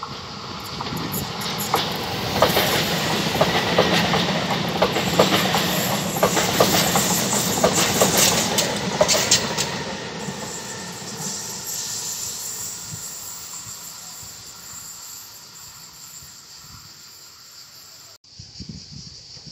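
Hitachi Rock ETR521 double-deck electric multiple unit passing slowly, its wheels clicking over the rail joints in a clickety-clack. It is loudest as it goes by and fades away after, then the sound cuts off abruptly near the end.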